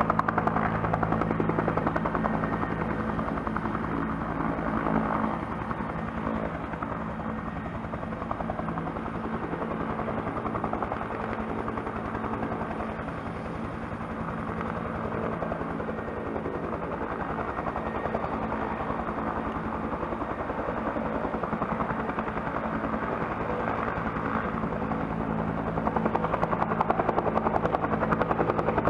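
Bell helicopter running, a steady rotor chop over the turbine's hum; it dips a little in loudness through the middle and grows louder again near the end.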